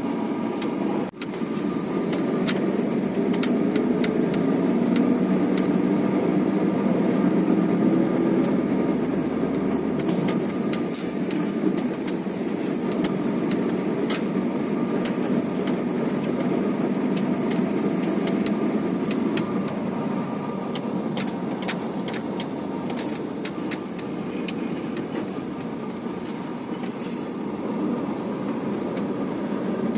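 Steady engine and road rumble inside the cab of a heavy multi-axle truck on the move, with scattered light clicks and rattles.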